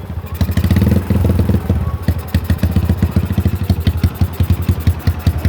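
Yamaha Scorpio Z's single-cylinder four-stroke engine running through an aftermarket RCB exhaust. It is revved up briefly in the first couple of seconds, then settles to an idle with an even, quick exhaust beat of about ten pulses a second.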